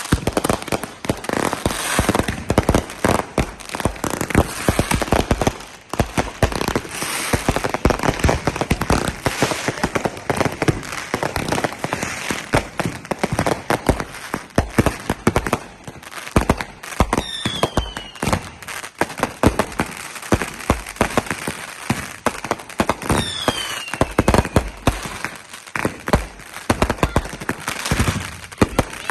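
Fireworks going off in rapid succession: a dense, continuous crackling and banging of firecrackers and shells. A short falling whistle cuts through about 17 seconds in, again around 23 seconds, and at the very end.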